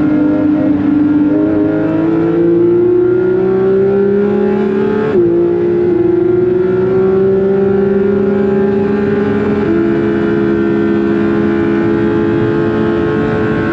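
Porsche 911 GT3 (992.2) naturally aspirated 4.0-litre flat-six at high revs under full throttle, its pitch climbing slowly. About five seconds in there is a quick upshift, a click and a sudden drop in pitch, then it pulls and climbs again.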